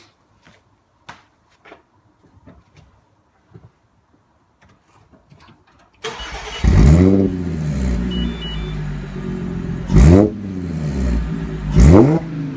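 Faint clicks, then about six seconds in the Audi S4's supercharged 3.0-litre V6 starts with a rev flare and settles to a fast idle. It is then blipped twice, sharp revs rising and falling near ten seconds and again near the end, heard through the car's exhaust.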